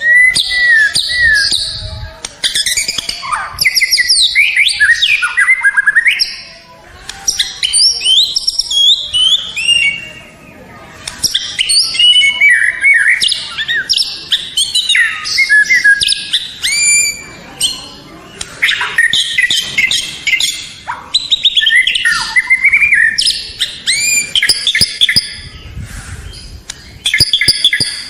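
White-rumped shama (murai batu) singing: loud, rich phrases of varied whistles, sweeping notes and rapid trills, broken by short pauses between phrases.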